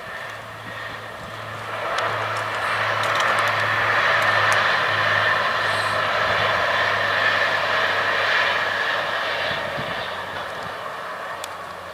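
A regional multiple-unit train passing along the line. Its running noise swells to a peak about four to eight seconds in, then fades as it moves away.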